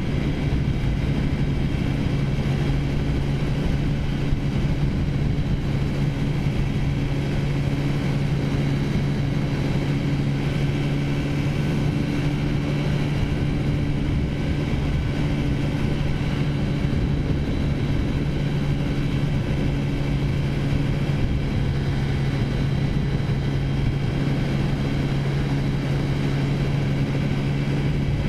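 Taotao scooter's small single-cylinder four-stroke engine running at a steady cruising speed, one even engine note throughout, with wind rush on the microphone.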